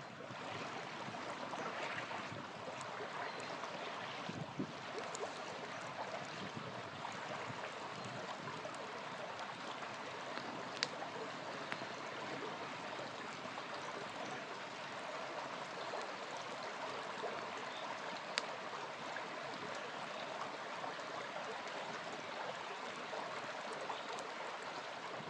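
Small river flowing steadily with a constant rushing, gurgling noise, and a few sharp pops from a campfire crackling, the clearest about 11 and 18 seconds in.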